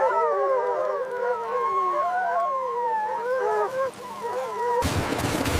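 A pack of wolves howling in chorus, several voices overlapping and gliding up and down in pitch. Near the end the howling cuts off abruptly and gives way to a rough, crunching noise.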